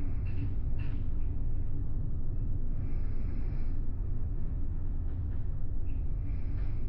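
Steady low rumble of a large ferry's engines and hull vibration heard from inside a passenger cabin while under way, with a few faint higher hissing sounds coming and going.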